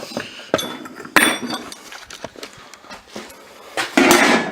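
Steel sockets and hand tools clinking and clattering as they are sorted through, with a sharp clank a little over a second in and a longer rattling clatter near the end.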